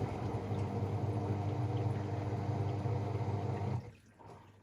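AEG Protex Plus front-loading washing machine running on its final spin, a steady motor hum with a fixed pitch. The hum cuts off abruptly near the end.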